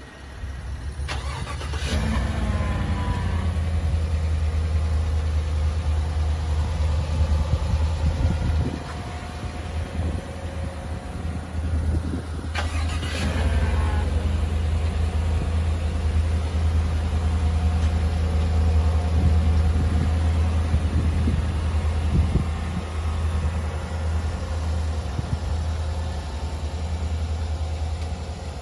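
A car engine starting, about a second in and again about 13 seconds in, each time catching with a brief rise and fall in pitch, then running at a steady idle with a low hum.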